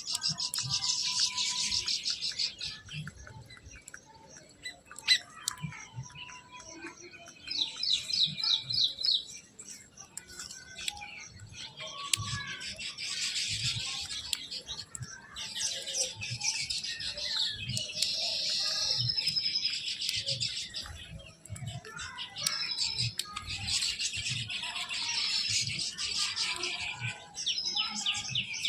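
Small birds chirping and twittering in repeated bursts of dense, high-pitched chatter, each a second or two long with short pauses between.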